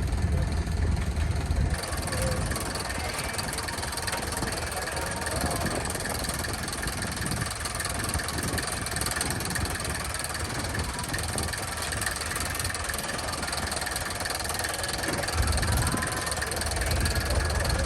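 Engine running steadily under a busy noisy background, with a heavy low rumble near the start and again near the end.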